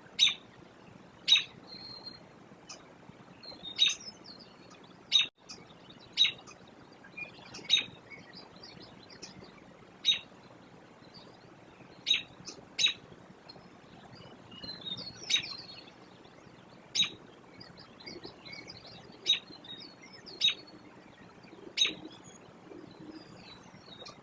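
Birds chirping: short, sharp chirps every second or two, with fainter twittering between them.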